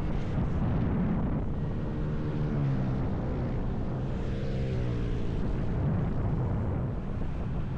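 Motorcycle engine running while riding, its pitch rising and dropping twice, over a steady rushing noise.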